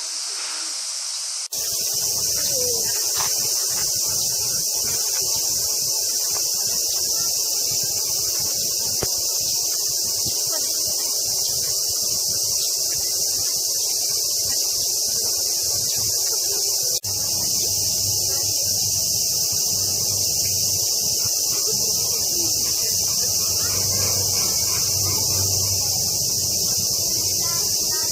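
Cicadas in summer chorus, a loud, steady, dense high-pitched buzz. It breaks off for a moment twice, about a second and a half in and again about seventeen seconds in.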